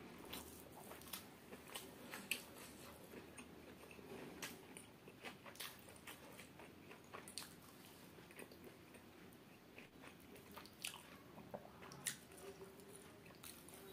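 Close-miked chewing and biting of chicken biryani: wet mouth clicks and smacks scattered irregularly, the loudest about two seconds in, over the soft squish of rice being gathered by hand.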